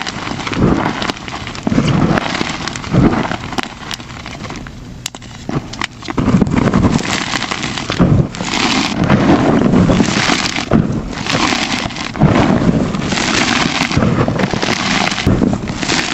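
Plain white gym chalk blocks crushed and crumbled by hand: a dense run of crunching and crackling, sped up to double speed. It eases off briefly about five seconds in, then picks up again.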